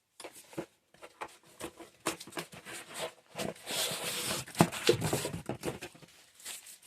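Packaging being opened and parts unwrapped by hand: crinkling, tearing and rustling with scattered clicks and knocks, a longer rustle about four seconds in.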